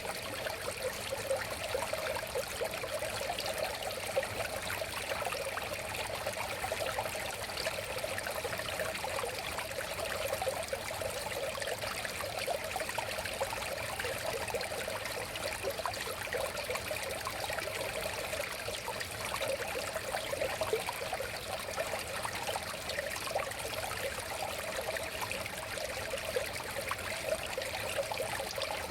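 River water flowing and babbling over stones: a steady, even rush with constant small splashing and gurgling.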